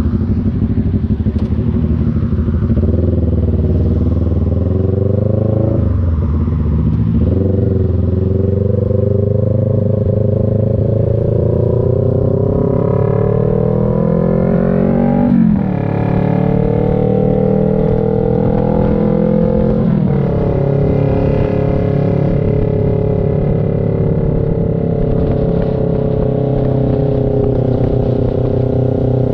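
CF Moto NK400 two-cylinder motorcycle engine accelerating through the gears: the revs climb, then drop sharply at upshifts about 6, 15 and 20 seconds in. After the last shift the engine holds a steady pitch at cruising speed.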